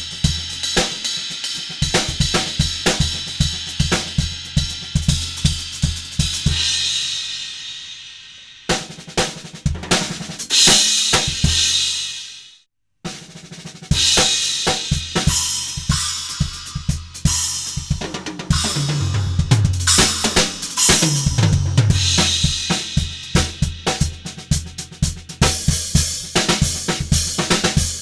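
Omete cymbals played on a drum kit along with snare, bass drum and hi-hat in fast strokes. A cymbal wash builds in the middle and is cut off by a brief break, and later tom strikes fall in pitch as a fill.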